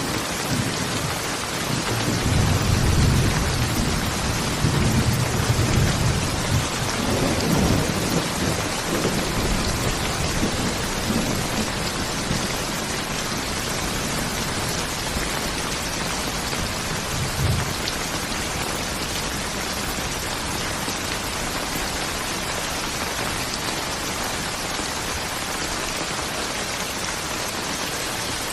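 Steady rain falling, with a long roll of thunder rumbling through the first several seconds and dying away, and a brief low rumble a little past the middle.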